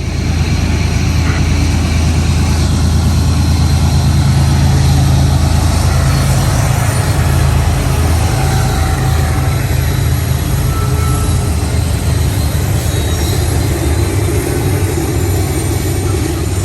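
Diesel freight locomotives running close and loud: a steady low engine drone under a wide rushing noise. It starts suddenly, cut in at full level.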